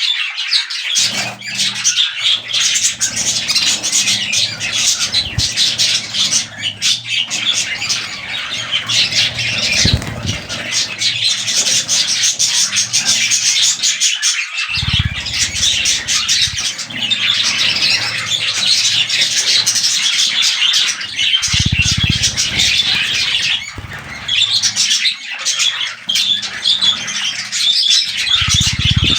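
Budgerigars chattering and warbling without a break, a dense mix of chirps, squawks and clicks, with a few brief low thuds.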